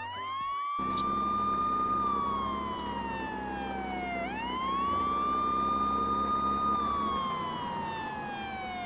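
Fire truck siren wailing: the tone rises, holds high for about a second, then slides slowly down over about two seconds, and goes round this cycle twice. A low steady engine drone runs under it.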